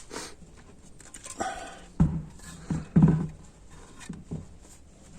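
An animal's voice: a brief whine, then two loud low sounds about a second apart.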